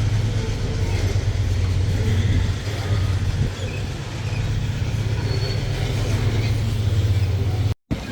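Loaded freight train rolling past: a low diesel locomotive rumble that drops away about two and a half seconds in, leaving the steady noise of heavy wagons running on the rails. The sound cuts out for a moment near the end.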